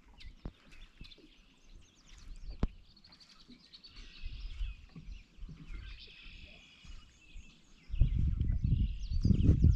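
Birds chirping and calling, with a few sharp clicks or knocks in the first seconds. About eight seconds in, a loud, uneven low rumble starts and drowns the birds.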